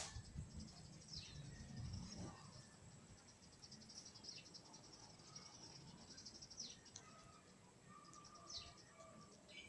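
Faint outdoor ambience: insects trilling steadily, with a few short falling bird chirps.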